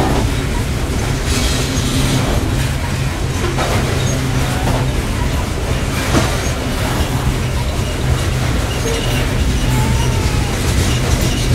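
Freight train of coal cars rolling past at close range: a steady low rumble of steel wheels on the rails, with a few sharp clanks.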